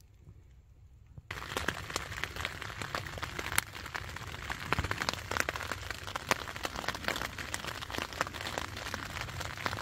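Light rain pattering on the fly of a Litefighter 1 tent, heard from inside: a steady hiss dotted with many separate drop ticks. It starts suddenly about a second in, after faint outdoor quiet.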